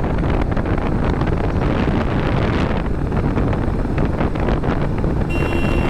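Heavy wind buffeting the microphone on a moving motorcycle, over steady engine and road noise. A brief steady tone sounds near the end.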